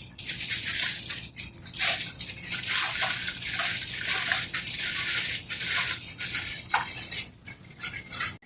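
Water splashing and running, a steady hiss with small splashes that trails off near the end.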